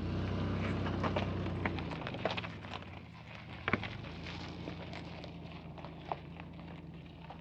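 Toyota 4Runner crawling slowly over a loose, rocky trail: a steady low engine hum under irregular crunches and sharp cracks of stones under the tires. The engine is loudest in the first couple of seconds, and one sharp crack stands out near the middle.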